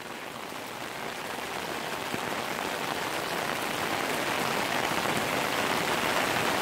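Heavy rain pouring onto a wet paved street: a steady, even hiss of rain that grows gradually louder as it fades in.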